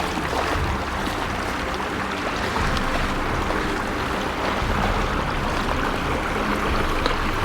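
Small mountain stream flowing steadily, a constant rushing hiss of running water.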